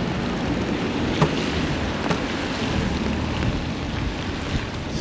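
Wind buffeting the microphone and tyre hiss on a wet road while riding an e-bike in the rain, with two short clicks about one and two seconds in.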